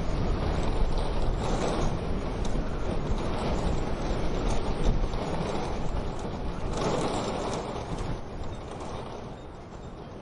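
Wood-burning stove fire crackling with small clicks and ticks, under a rushing wind noise that swells twice and fades toward the end.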